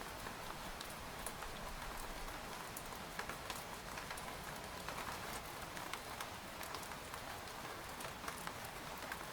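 Steady rain pattering on a tent, with many separate drop ticks over an even hiss.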